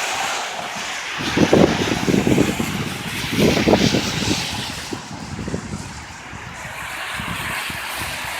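Traffic on rain-wet city streets: a steady hiss of tyres and rain, with a louder stretch of low, irregular rumbling from about one to five seconds in.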